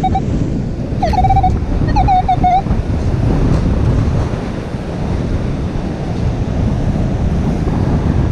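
Wind buffeting the microphone over surf, with a metal detector's warbling tone sounding twice, about a second in and again around two seconds in.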